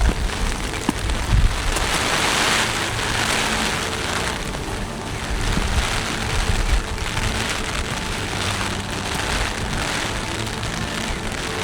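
Heavy typhoon rain pouring down in waves that swell and ease every second or two, over a low rumble.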